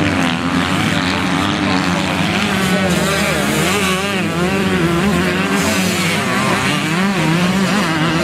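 Several motocross bikes' engines racing together, their pitches rising and falling as they rev through the gears and ease off.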